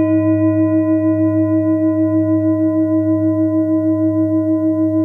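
Singing bowl ringing on after a single strike: a steady sustained tone with a gentle, regular wavering pulse.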